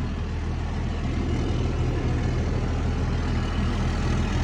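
First-generation Dodge Cummins 5.9L turbo diesel inline-six idling steadily, a low, even rumble.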